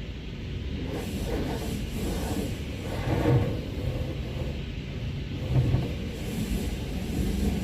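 Rubbing and wiping noises from cleaning a car, over a low rumble, with two louder bumps about three and five and a half seconds in.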